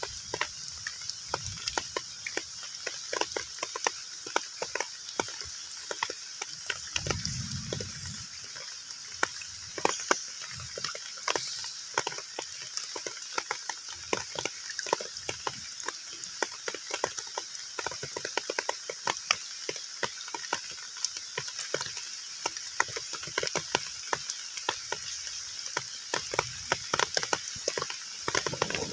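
Heavy rain falling on a pond's surface: a steady high hiss thick with irregular drop plinks and splashes. A brief low sound comes about seven seconds in.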